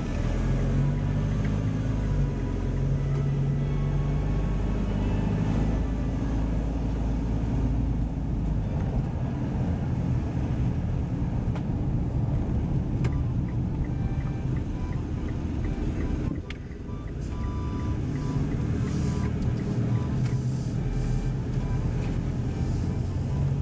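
A motor vehicle running steadily, with short repeated beeps in the last few seconds.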